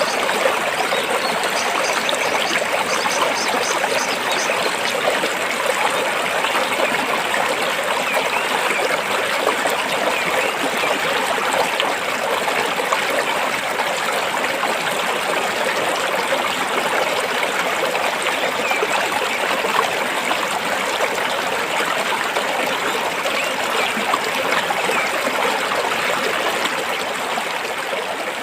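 Stream water running and splashing over rocks, a steady trickling rush with no pauses.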